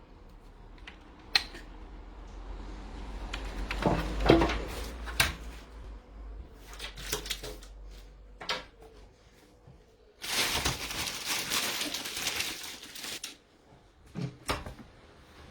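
Objects being handled: scattered clicks and knocks, and about three seconds of rustling starting about ten seconds in.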